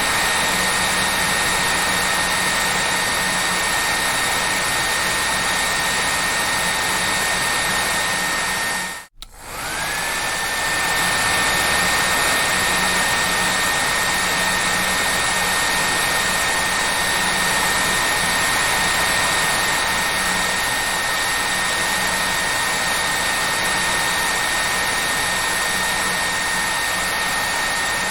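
Hair dryer running with a steady rushing hiss and a high whine. About nine seconds in it cuts out for a moment, then comes back, its whine rising back up to pitch.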